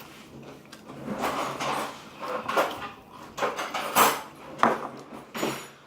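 Eating sounds close to the microphone: irregular bites and chewing of watermelon, with a few sharp clicks of cutlery against a dish.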